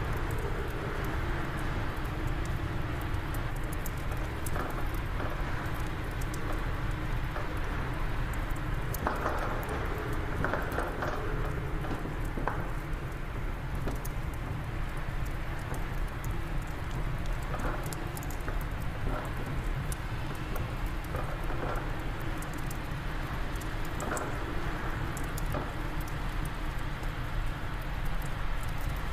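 Fireplace wood fire crackling, with irregular pops and snaps, over a steady low rush of wind.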